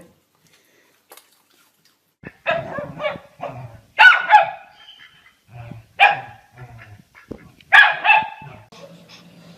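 A dog barking: a run of short, sharp barks starting about two seconds in, the loudest near the middle and near the end.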